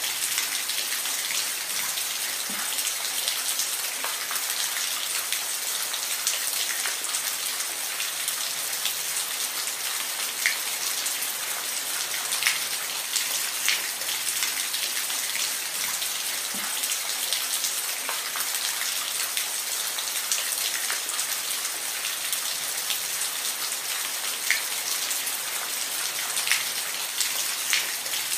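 Steady rain: an even hiss of rainfall with the sharp ticks of single drops striking a surface scattered through it.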